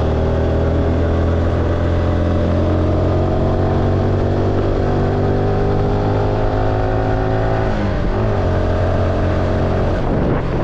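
Car engine pulling steadily up a long mountain climb, its pitch creeping slowly upward, then dipping and recovering about eight seconds in.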